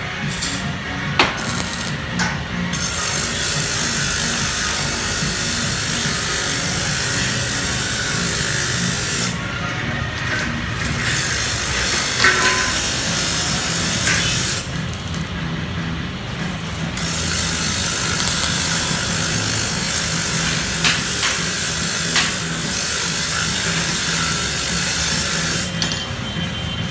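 Power tool cutting or grinding iron: a steady hiss that breaks off briefly twice, over background music with a steady low beat.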